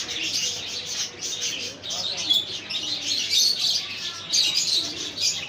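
A dense chorus of many small caged birds chirping and tweeting continuously, with lower cooing calls mixed in underneath.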